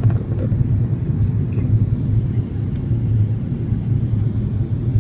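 Steady low rumble of an airliner's jet engines and airflow during the approach to land, with no clear change in pitch.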